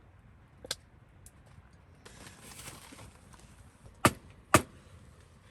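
A faint click, a short soft hiss, then two loud sharp knocks about half a second apart near the end.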